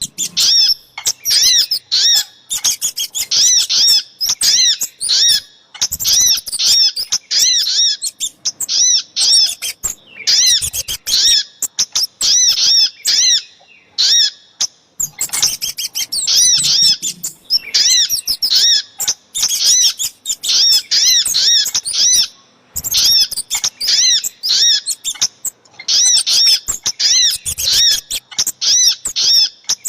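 Bird-lure recording of little spiderhunter (sogok ontong) and kemade calls: rapid runs of sharp, high chipping notes, a few a second, in bursts of several seconds with brief pauses between them.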